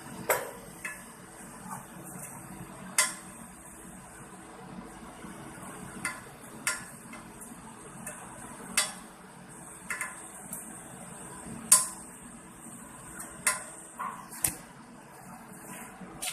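Sharp metallic clinks, about a dozen at irregular intervals, over a steady faint hiss and hum.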